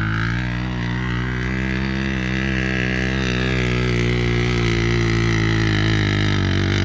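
Motorcycle engine running steadily at high revs, its pitch creeping slightly upward.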